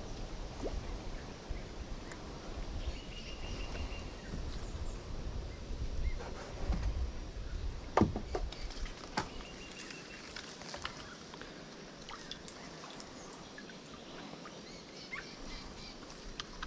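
Outdoor creek ambience with short bird chirps a few seconds in and again near the middle, scattered light clicks and ticks, and one sharp knock about eight seconds in. A low rumble on the microphone fills the first half.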